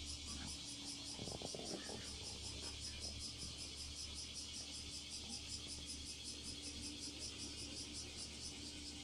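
Small hot-water Stirling engine with an aluminium cylinder and graphite-epoxy piston running, giving a faint high hiss that pulses about four times a second with each stroke, over a steady low hum. A brief light clatter comes about a second in.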